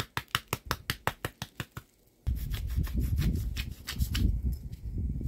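Pepper mill being ground over meat: a fast, even run of clicks, about seven a second, that stops about two seconds in. Then a steady low rumble with faint crackling.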